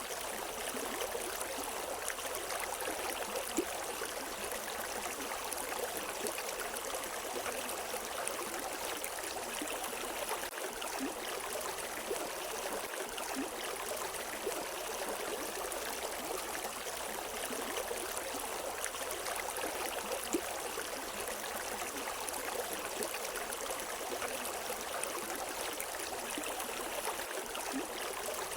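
River water flowing and splashing over rocks in a steady rush, with small drops and trickles now and then.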